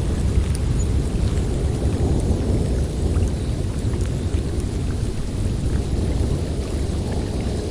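Snowstorm wind blowing steadily through a forest: a deep, even rush of wind noise with no let-up.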